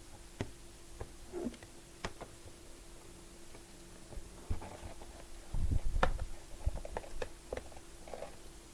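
Packaged book sets being handled on a surface: scattered light taps and clicks, with a heavier bump and knock about five and a half to six seconds in, over a faint steady hum.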